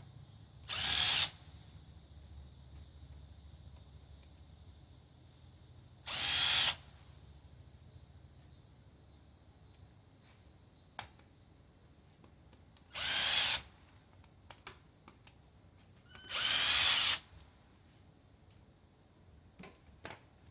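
Power drill spinning a 10 mm socket in four short bursts, each about half a second to a second long, backing bolts out of a Ford 4.6 V8 engine during teardown. Faint clicks of metal parts are heard between the bursts.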